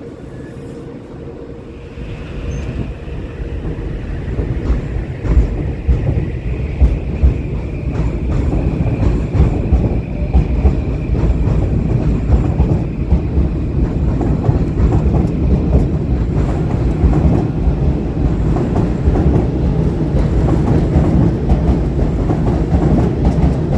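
Metro-North commuter train running past at close range. The rumble builds about two seconds in and then holds loud, with the wheels clattering over rail joints and a faint, steady high whine through most of the pass.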